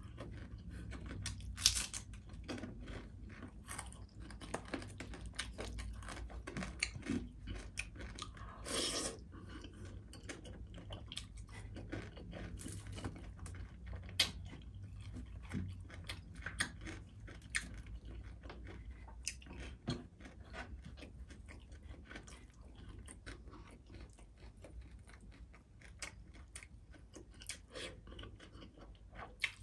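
Close-miked chewing of crispy fried tilapia, a run of short crunches and clicks from the mouth. There is a louder crunch about two seconds in and a longer one near nine seconds.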